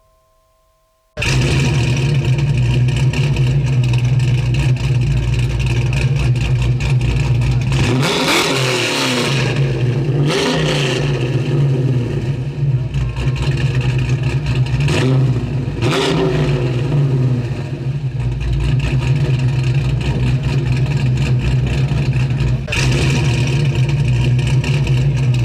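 1956 Ford Victoria's 292 Y-block V8, fitted with a cam and three Stromberg carburetors, starts up abruptly and runs steadily, revved up and back down several times.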